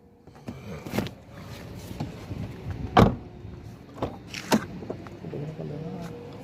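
A series of clunks and knocks with rustling between them, the loudest a heavy thud about three seconds in, followed by a lighter pair about a second later.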